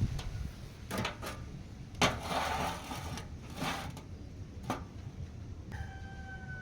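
Workshop handling sounds: a few sharp knocks and a short scraping rush, then a faint steady ringing tone near the end, like a struck metal piece.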